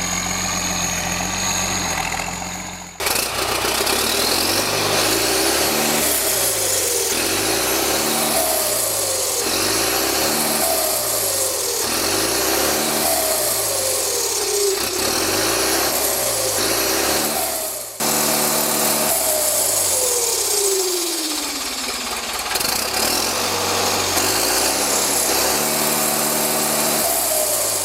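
Ford New Holland 7840 tractor's turbocharged diesel engine revved again and again: each time a turbo whine climbs and then falls away as the revs drop, about every two and a half seconds.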